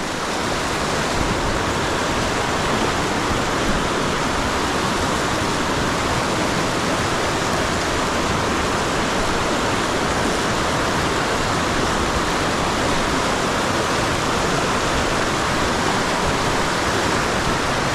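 River water rushing steadily, a loud, even roar of flowing water.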